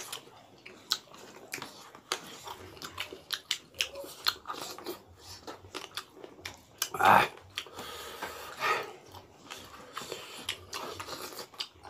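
Close-up eating sounds of people eating rice and curry with their hands: chewing and lip smacking with many short wet clicks. One louder short mouth or voice sound comes about seven seconds in, and a smaller one near nine seconds.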